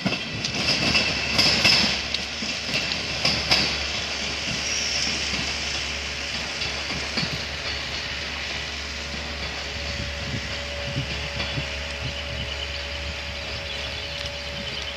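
The last Chinese-built passenger coaches of a train roll past, their wheels clacking over the rail joints for the first few seconds. Then the train's rumble fades steadily as it pulls away down the line, and a faint steady whine comes in about two-thirds of the way through.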